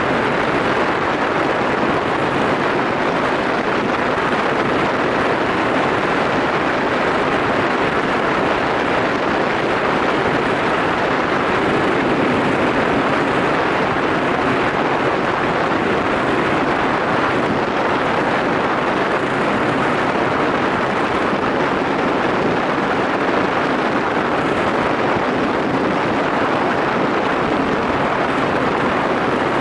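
Yamaha SRX400 single-cylinder motorcycle engine running at a steady cruise, mostly buried under loud wind noise on the microphone.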